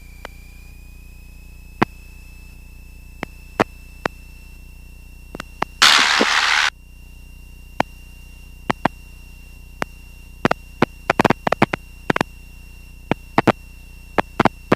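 Cockpit intercom and radio audio: a steady low hum with a faint steady whine, scattered sharp clicks, and a brief burst of radio static about six seconds in.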